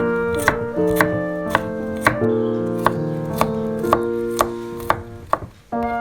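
Knife chopping food on a cutting board in even strokes, about two a second, over background piano music.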